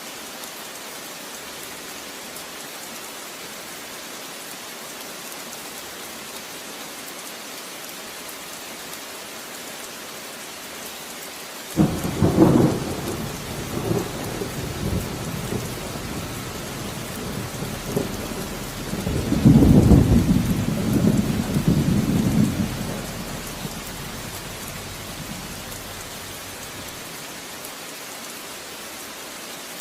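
Steady rain falling, broken a little before halfway by a sudden thunderclap that rumbles on, then a second, louder peal of thunder that fades away near the end while the rain continues.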